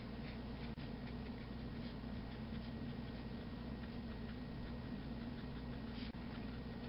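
A pen scratching rapid short strokes on paper, drawing little slanted lines, over a low steady hum.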